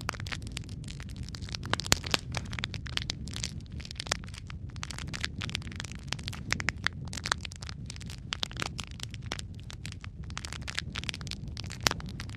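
Wood fire burning in a fireplace: logs crackling with dense, irregular pops and snaps over a steady low rumble of the flames, a few sharper pops standing out.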